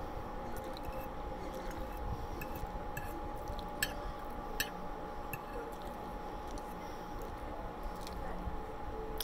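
Close-up mouth sounds of chewing soft food (rice, cabbage and ham), with a metal fork scraping and clinking on a ceramic plate; two sharper clinks come about four and four and a half seconds in. A faint steady hum sits underneath.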